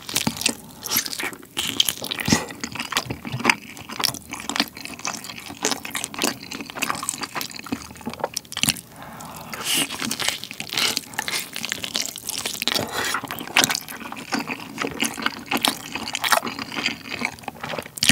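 Close-miked biting and chewing of a sauce-glazed grilled chicken leg (Jamaica-style whole leg): a dense run of short smacks and clicks of mouth and tearing meat, without a break.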